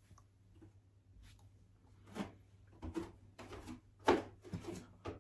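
A handful of short, soft knocks and shuffling noises, the loudest a little after four seconds in, over a low steady hum.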